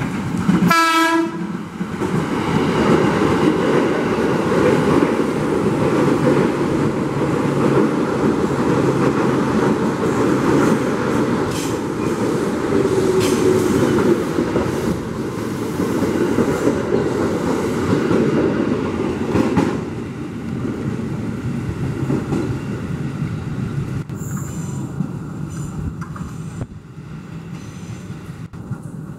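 KRL Commuter Line electric commuter train sounding a short horn blast about a second in, then running close past with a loud rumble of wheels on the rails that lasts close to twenty seconds before fading.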